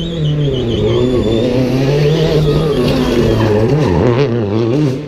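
Rally car's engine revving hard on a closed stage, its pitch swinging up and down with throttle and gear changes as it comes close, then dropping off sharply near the end as it goes by. A high wavering squeal sounds over it in the first second and a half.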